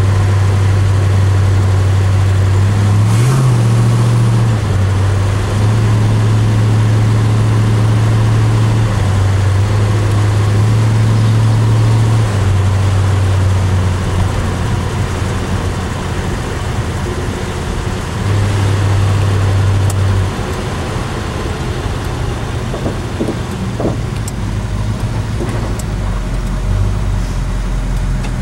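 Chevrolet 396 big-block V8 in a 1981 Monte Carlo driving on the road, heard from inside the cabin. The low engine note shifts with the throttle, rises briefly about three seconds in, and drops lower near the end as the car slows.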